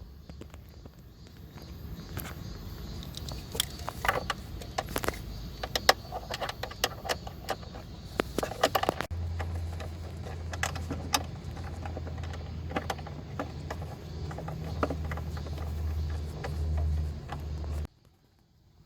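Metal hand tools clinking and knocking against metal parts in a car's engine bay, in irregular clicks, over a steady low hum.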